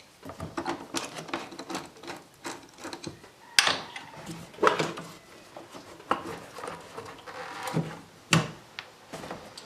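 Hands unclipping plastic clips, electrical connectors and hoses from a car engine's inlet manifold: irregular clicks, knocks and rattles, with a few sharp snaps as parts come free.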